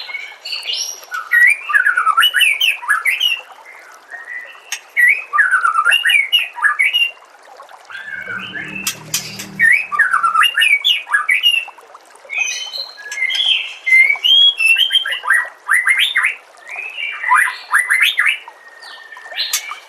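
White-rumped shama (murai batu) singing: bursts of rapid, varied whistled and chattering phrases separated by short pauses.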